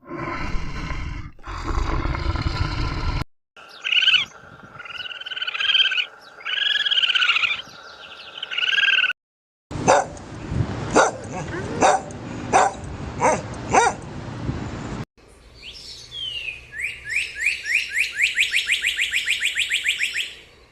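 A run of different animal calls spliced together with abrupt cuts: first a loud harsh call, then drawn-out calls that rise and fall in pitch, then a string of sharp yaps or barks about twice a second, and near the end a fast twittering series of bird chirps.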